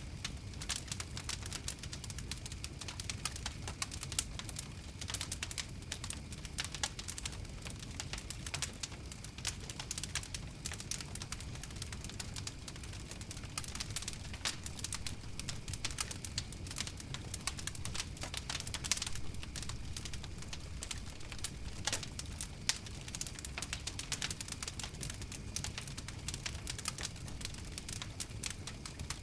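Wood fire crackling steadily, with a dense run of sharp pops and snaps over a low, constant rumble of the flames.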